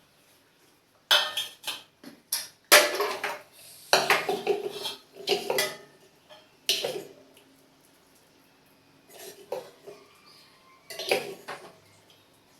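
Dishes and metal utensils clinking and clattering in a series of sudden, irregular knocks, busiest in the first half and again near the end.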